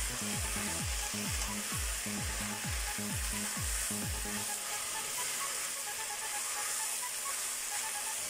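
Shredded cabbage and carrot sizzling in a hot wok as they are stirred and tossed with a silicone spatula, a steady frying hiss. A regular low thumping beat, about three a second, runs under it for the first half and then stops.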